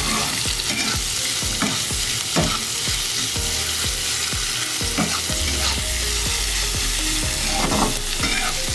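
Chopped onions sizzling as they fry in hot oil in a kadai for beresta, with a spatula scraping and stirring through them in short strokes about once or twice a second.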